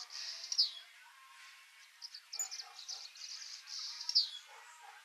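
A bird calling: a quick run of high chirps ending in a falling note, given twice.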